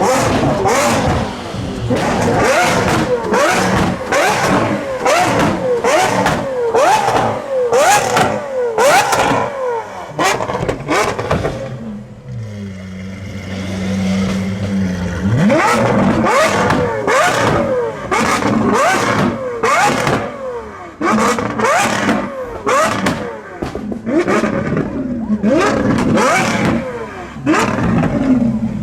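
Lamborghini Aventador SVJ's V12 through a Deutsch Tech DTX exhaust, revved hard again and again, with sharp pops and bangs between the revs. About midway it settles to a steady idle for a few seconds, then the revving starts again.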